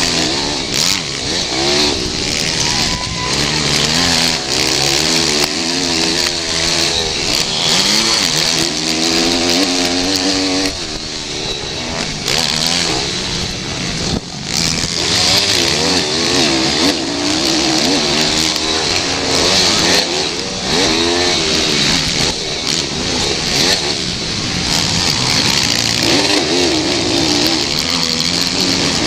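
Pit bike engines racing, revving up and down repeatedly as the riders accelerate and shift, with several engine notes overlapping. These are small four-stroke single-cylinder motorcycle engines.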